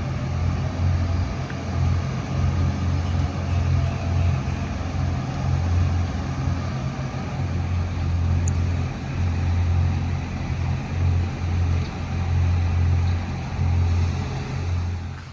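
Twin-outboard boat running on the water at speed, with heavy wind buffeting the microphone in irregular gusts.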